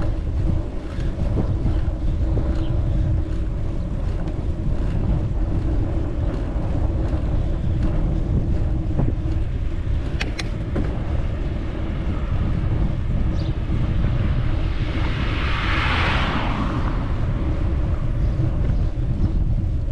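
Wind buffeting the microphone with a steady low rumble while riding a bicycle. A couple of sharp clicks come about halfway, and a hiss swells and fades about three-quarters of the way through.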